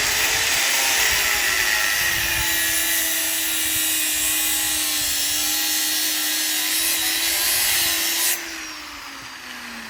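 Angle grinder running against metal with a loud, steady grinding hiss. About eight seconds in it comes off the work suddenly and the motor winds down, its pitch falling.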